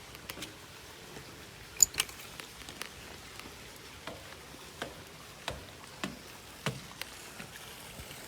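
Rain falling: a soft steady hiss with irregular sharp drops ticking on surfaces, one louder tick a little under two seconds in.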